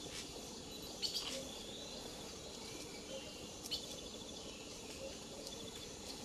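Tropical rainforest ambience: a steady high drone of insects with bird chirps and trills. A few short sharp clicks stand out about a second in and again near the four-second mark.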